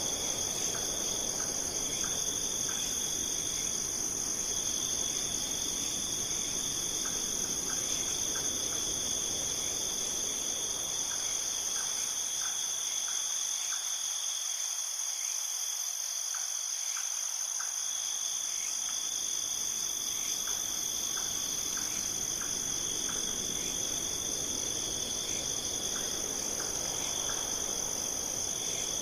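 Insect chorus trilling steadily at a high pitch, with scattered short faint chirps over it. A low background rush thins out for a few seconds midway.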